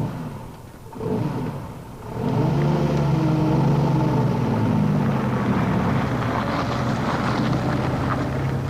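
Engine of a vintage wartime military vehicle starting to rev about two seconds in, its pitch rising and falling back, then running steadily.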